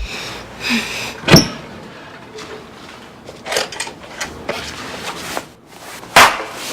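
A few scattered knocks and clicks, like a door or cupboard being handled, the loudest about six seconds in.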